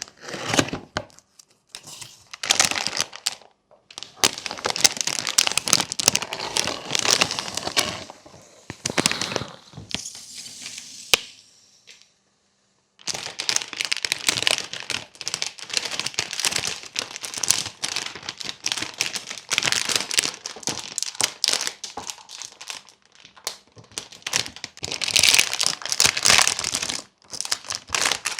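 Crinkly packaging being handled and torn open: dense, irregular crinkling and crackling in spells, stopping for about a second near the middle.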